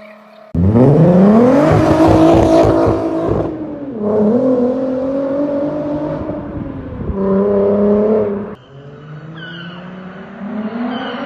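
Volkswagen VR6 narrow-angle V6 engine revving hard: it comes in suddenly and its note climbs for about three seconds before dropping back. It runs steadier, gives a short second rev, falls quieter, then starts climbing again near the end.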